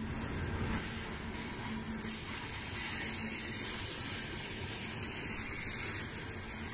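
Loaded coal cars of a freight train rolling past close by: a steady rushing noise of steel wheels on the rails.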